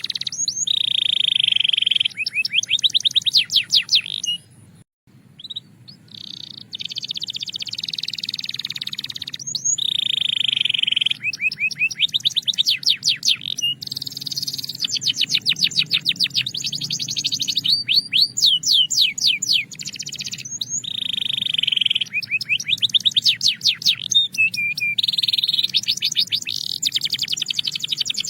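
Belgian canary singing continuously in phrases: clear, held rolling tones alternate with runs of fast repeated notes. There is a brief break about five seconds in.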